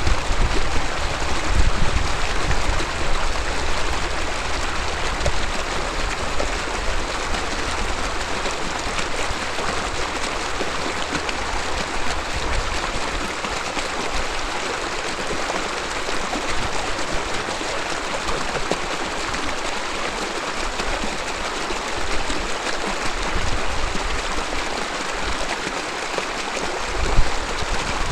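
Mountain river babbling over rocks: a steady, even rush of flowing water.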